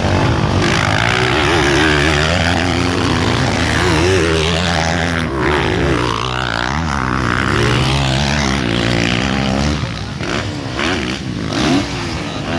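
Several motocross bikes racing together, their engines revving and easing off in overlapping rising and falling whines.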